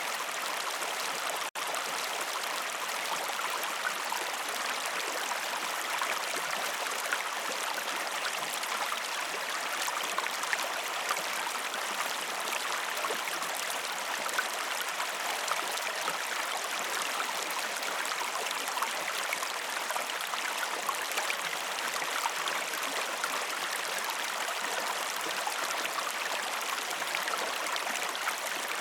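River or stream water flowing steadily with a continuous rushing and fine splashing. There is a momentary dropout about a second and a half in.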